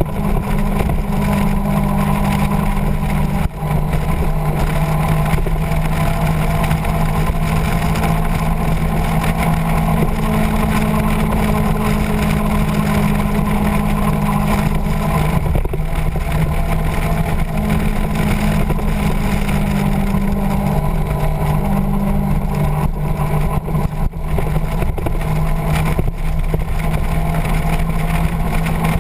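Motorcycle engine running steadily at cruising speed under a constant rush of wind and road noise, with brief dips in loudness twice.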